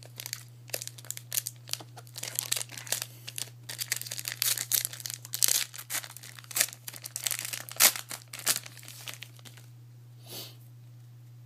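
Wrapper of a trading-card pack being torn open and crinkled: a dense run of crackling and tearing that stops about nine and a half seconds in, followed by one soft rustle.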